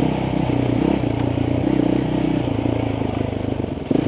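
Motorcycle engine running steadily at low revs, its pitch holding fairly even with small rises and dips.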